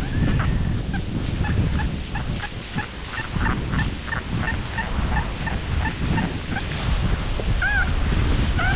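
Heavy wind buffeting the microphone, with geese calling over it: a quick run of short honks, then two longer rising-and-falling honks near the end.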